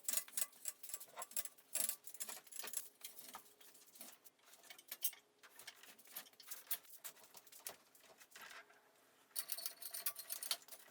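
Quiet, irregular light clicks and small rattles, several a second, with a brief lull about eight seconds in and a denser flurry just after.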